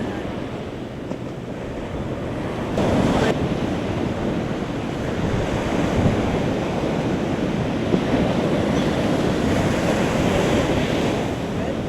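Ocean surf washing onto a beach in uneven surges, with wind rumbling on the microphone.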